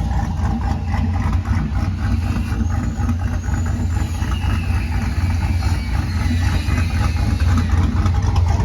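Pickup truck with a newly installed aftermarket exhaust and 3½-inch tips, the engine idling steadily with a deep, even exhaust note.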